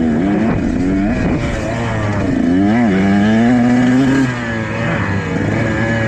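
Motocross dirt bike engine revving up and down as the throttle is worked, the pitch climbing and falling several times, then easing off about four seconds in.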